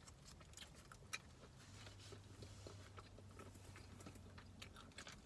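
Faint close-up chewing of soft steamed pork barbecue buns (siopao), with scattered small mouth clicks and one sharper click about a second in.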